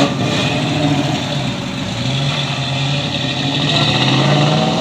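A car engine running as a car drives off, its note rising and getting louder near the end.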